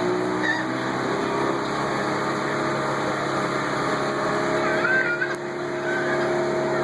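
Tour boat's motor running steadily at a constant pitch, with a few short high chirps about five seconds in.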